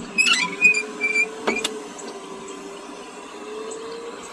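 Power moonroof motor of a Nissan Maxima running as the roof moves, a steady hum that rises slightly in pitch and stops near the end. A few clicks come about half a second in.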